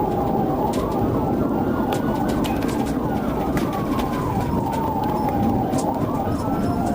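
Police car siren on a slow wail, pitch rising for about two seconds, falling for about three, then starting to rise again near the end, over loud steady road and engine noise of the patrol car at speed.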